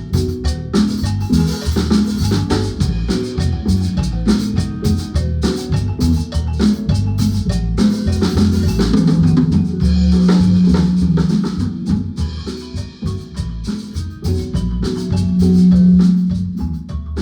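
Guatemalan marimba band playing with drum kit accompaniment: quick runs of struck wooden-bar notes over steady drum hits. There are louder held low notes about halfway through and again near the end.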